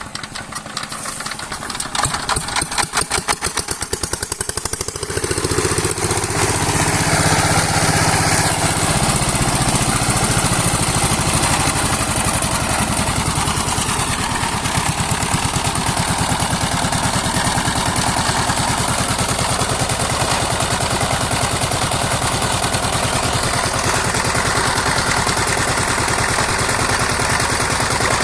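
Sifang power tiller's single-cylinder diesel engine. It puts out uneven, pulsing beats for the first few seconds, then picks up speed about five seconds in and settles into a steady, even run.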